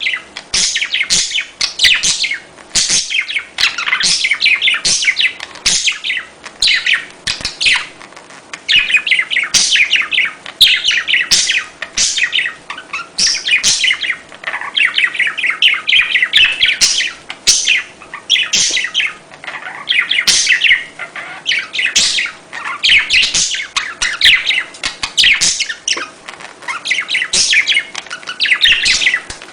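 Budgerigars chattering and chirping nonstop, many rapid overlapping calls at once.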